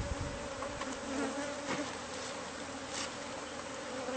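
A colony of honey bees buzzing around their opened hive, a steady dense hum.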